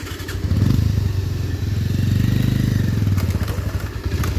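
Motorcycle engine running under way, its pulsing note getting louder about half a second in and dropping back near the end, with a few light knocks.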